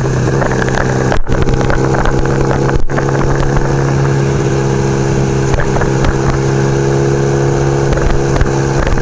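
1975 Kawasaki KZ400's parallel-twin engine running at a steady, held speed under way. The sound cuts out for an instant twice, about a second and three seconds in.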